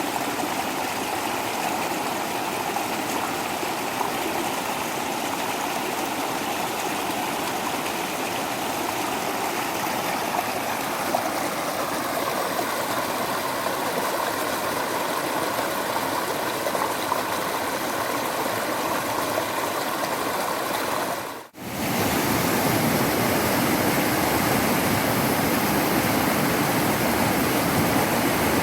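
Waterfall water rushing steadily. About three-quarters of the way through it drops out for an instant and comes back a little louder.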